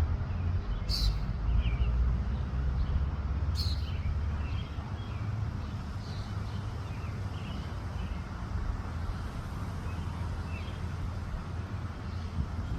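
Wind buffeting the microphone: a low, gusting rumble, strongest in the first few seconds, with faint bird chirps and two brief sharp high sounds, about a second in and near four seconds.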